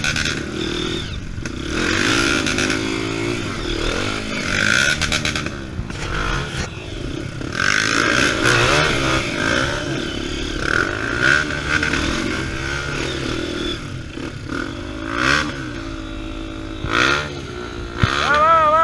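Trail motorcycle engine revving up and down again and again as it is ridden off-road, with repeated bursts of scraping and clattering noise.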